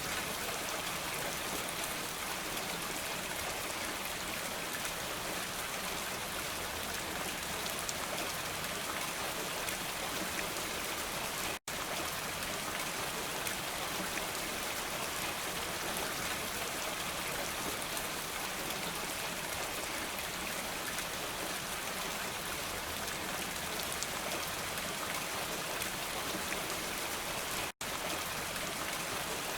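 Steady rain falling, a continuous even hiss of drops with no thunder. It cuts out for an instant twice, about a third of the way in and again near the end.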